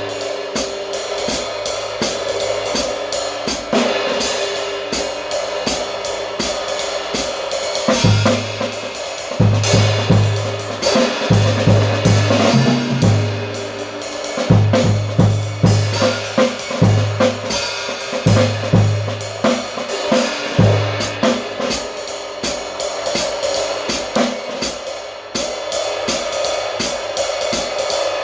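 Kamin cymbals played on a drum kit in a steady run of cymbal strokes with snare and hi-hat. From about eight seconds in to about twenty-one seconds, a run of low drum hits joins the cymbals.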